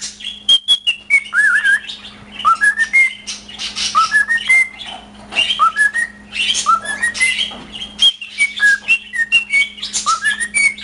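Male cockatiel singing: a string of short rising whistled notes, with many sharp clicks in between.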